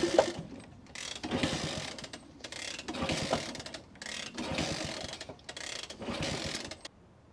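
Vintage small motorcycle being kick-started over and over, about five kicks a second and a half apart, the engine turning over with a ratcheting clatter but not catching. It ran a moment before and now won't restart; the owner, unsure, suspects a clogged pilot jet.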